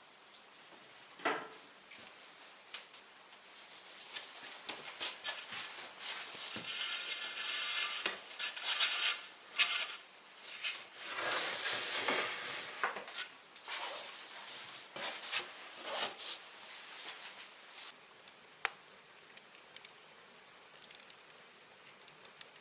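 Hands mixing and kneading bread dough in a bowl: irregular rubbing and scraping, busiest in the middle stretch, with a few small knocks.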